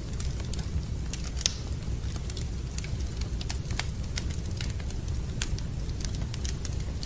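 Wood fire crackling in a fireplace: scattered sharp pops and snaps at irregular intervals, one louder pop about a second and a half in, over a steady low rumble.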